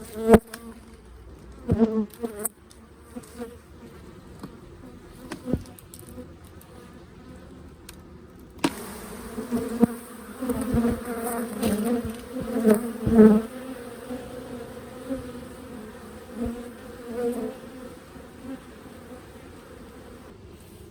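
Honey bees buzzing close around an open hive, the buzz swelling and fading as they fly past, loudest about halfway through. A few sharp knocks sound among the buzzing, the loudest just after the start.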